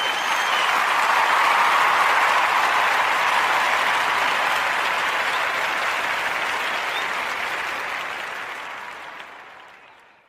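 Crowd applause that swells over the first second or so, holds, then slowly fades away to silence.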